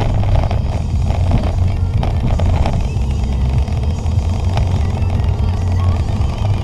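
Steady low rumble of a 2008 Honda Civic LXS on the move, heard from inside the cabin: engine and road noise.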